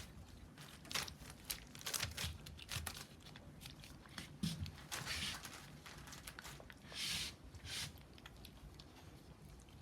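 Rough Collie puppies moving about and rustling, with scattered small clicks and a few short rustling bursts, the longest about seven seconds in.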